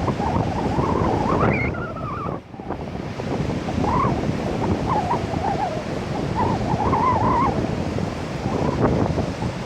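Heavy surf from typhoon-driven waves breaking on a beach, with strong wind rushing over the microphone.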